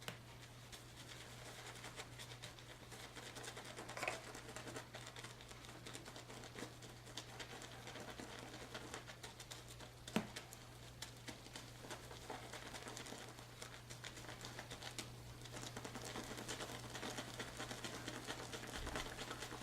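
Silver tip badger shaving brush swirled over a hard puck of sandalwood shave soap to load and start a lather: a faint, continuous crackly patter with a couple of louder taps.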